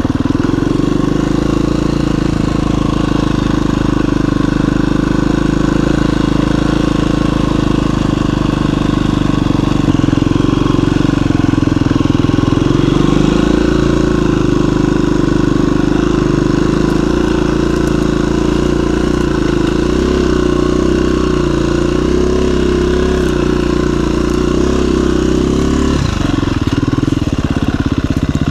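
2017 KTM 350 EXC-F dual-sport motorcycle's single-cylinder four-stroke engine running steadily at low revs, with a drop in pitch near the end.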